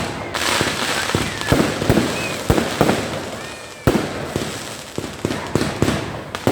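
Fireworks display: a rapid, irregular run of sharp bangs from bursting shells, about two or three a second, over a continuous hiss and crackle.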